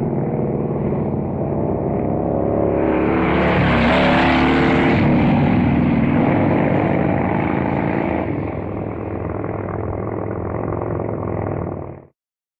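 Motorcycle engine running, growing louder and brighter about three seconds in as the pitch shifts, easing back after about eight seconds, then cutting off abruptly near the end.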